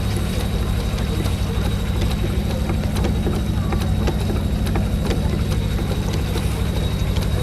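An engine running steadily with a fast, even beat, overlaid by sharp metallic ticks.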